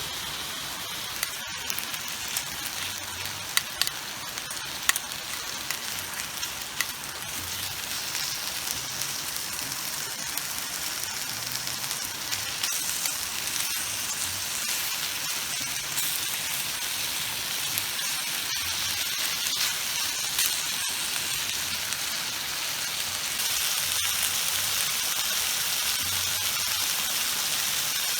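Meat sizzling as it cooks over a wood stove: a steady frying hiss, with sharp pops and crackles in the first several seconds.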